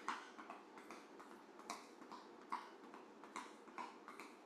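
Light, rhythmic footfalls of running shoes landing softly on the floor during a quick side-to-side cardio step, faint taps recurring about once a second.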